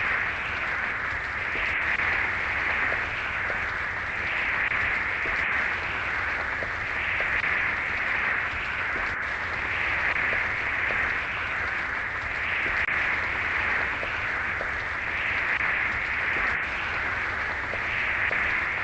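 Steady rushing water noise that swells and eases about once a second, over a low rumble.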